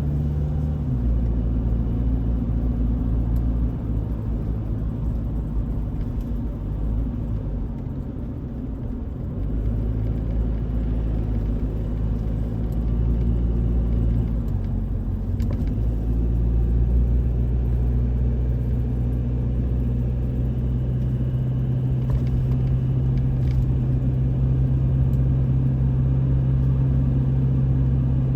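Toyota Hilux driving, with a steady low engine and road hum. The engine note shifts about a second in, again around nine to ten seconds, and again around fifteen seconds, as the speed or gear changes.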